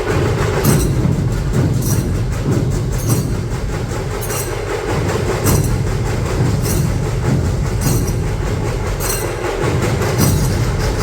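Dhol-tasha ensemble playing: massed dhol drums beating a dense, driving rhythm under the sharp rattle of the tasha, with a bright crash about once a second.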